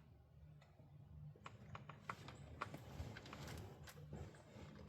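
Near silence with faint, irregular light clicks and taps of tools and small parts being handled.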